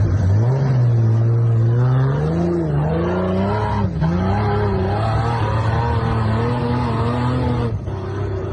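Vehicle engine revving under load, its pitch rising and falling several times as the throttle is worked, with brief dips about four seconds in and shortly before the end.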